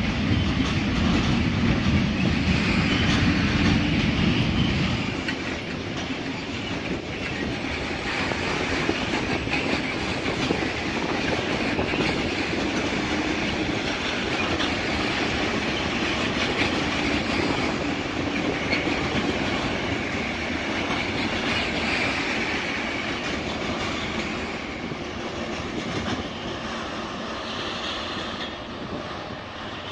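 Freight train of sliding-wall wagons rolling past, with the steady noise of wheels on rail. The noise is heavier for the first five seconds, then settles to a slightly quieter, even rolling.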